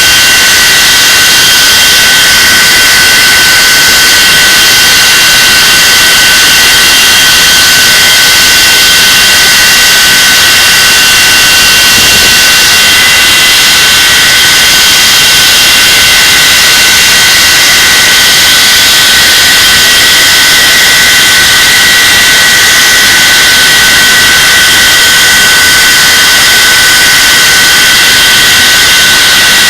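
The twin Rolls-Royce Avon turbojets of an English Electric Lightning running steadily and very loud in a ground run, a heavy rush of jet noise with a steady whine over it.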